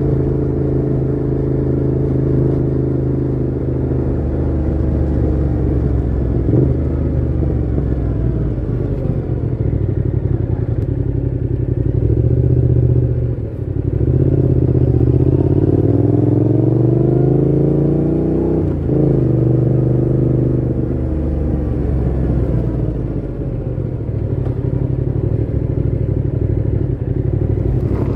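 Yamaha MT-07's 689 cc parallel-twin engine running through a Mivv GP Pro full exhaust with the dB killer fitted, on the move. It runs steadily, dips briefly about 13 seconds in at a gear change, revs up with rising pitch through the gear for about five seconds, drops at the next shift and settles back to steady cruising.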